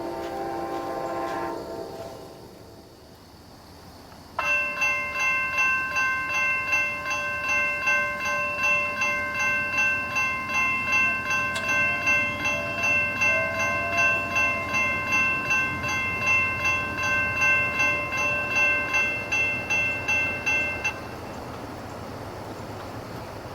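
An Amtrak locomotive's horn chord fades out in the first second and a half. About four seconds in, a railroad crossing's warning bell starts suddenly, ringing about twice a second over the low rumble of the passing train. The bell cuts off near the end, leaving the steady rumble of the rail cars rolling by.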